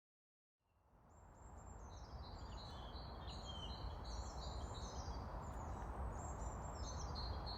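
Outdoor field-recording ambience fading in: a steady background noise, with small birds chirping above it in quick runs of short, high notes.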